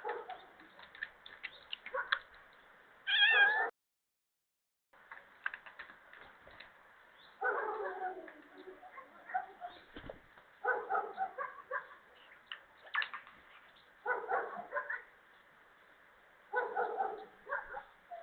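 Domestic cat meowing several times, with pauses of a few seconds between calls, picked up by a security camera's microphone that cuts off the highs.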